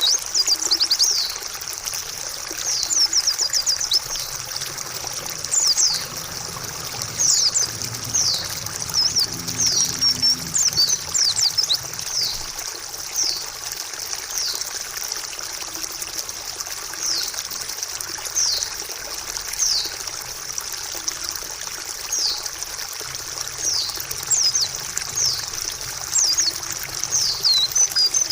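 White-eye (pleci) song: runs of quick, high chirps, each falling in pitch, with short gaps between runs. Steady trickling water runs underneath.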